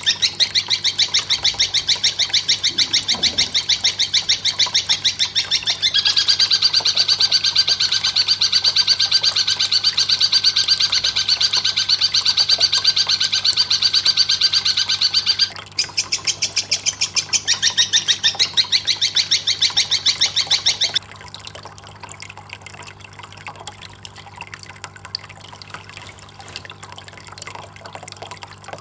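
A bird calling in a loud, rapid, high-pitched chatter of fast repeated notes over a steady low hum. The call changes pattern about a fifth of the way in, breaks briefly past halfway, and stops about three-quarters through, leaving only faint sounds.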